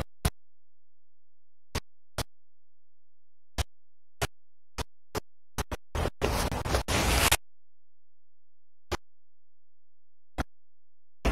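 Close-miked chewing of crispy fried chicken: scattered sharp crunchy clicks, with a denser stretch of crunching lasting about a second and a half around six seconds in, and dead silence between the sounds.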